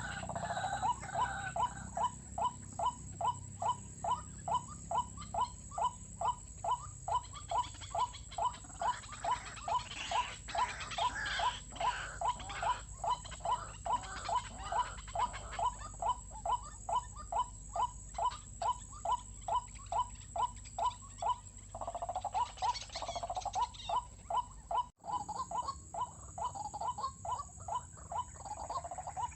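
White-breasted waterhen calling: a long, very regular series of short harsh notes, a little over two a second, broken briefly near the end.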